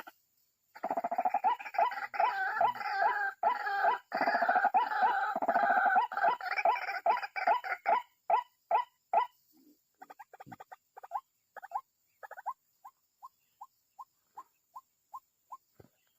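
White-breasted waterhen (ruak-ruak) calling: a loud, fast run of repeated calls that, after about eight seconds, slows into single, quieter notes about two a second and stops near the end.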